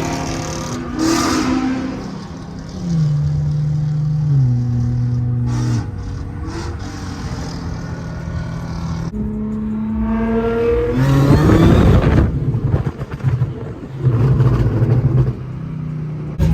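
Car engines revving and accelerating as several cars pull away, with engine notes holding and then dropping in pitch, and the loudest surge, a car accelerating past, about eleven seconds in.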